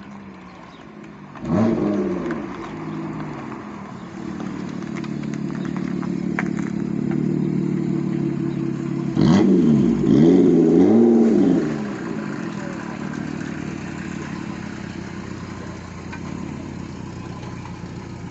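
Car engines running at a car meet, with revving as cars pull away: one sharp rev about one and a half seconds in, then a louder run of revs rising and falling from about nine to twelve seconds, and a steady engine note in between.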